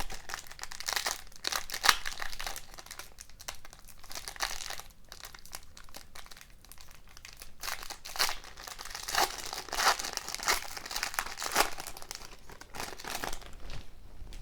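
Wrapper of a 2020-21 O-Pee-Chee Platinum hockey card pack being torn and crinkled by hand: a dense run of crackling with sharper crackles, stopping near the end.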